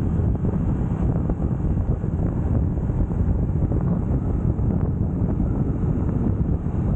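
Wind buffeting the microphone of a camera on a moving motorcycle at road speed, a dense steady rumble with the motorcycle's engine running underneath.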